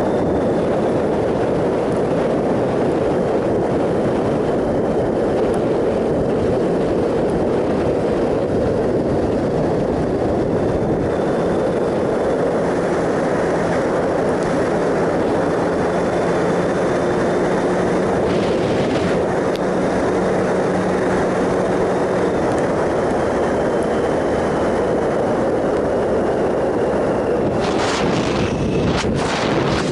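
Wind rushing over the microphone of a 2007 Triumph Sprint ST 1050 riding at steady speed, with the bike's three-cylinder engine humming underneath; the engine note stands out a little more in the middle, and a few short buffets come near the end.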